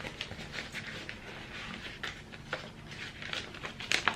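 Paper and card rustling and light clicks as printed items are slid into an envelope, with a couple of sharper clicks near the end.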